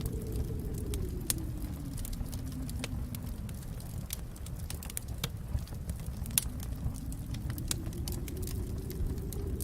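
Wood fire in a fireplace crackling: irregular sharp pops and snaps over a low rumble of the flames. The rumble thins around the middle and swells again near the end.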